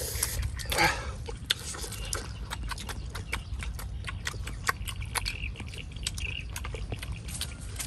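Chewing and lip-smacking of people eating roast duck with their hands, many short wet clicks several times a second, with meat being torn off the bone about a second in. A steady low rumble runs underneath.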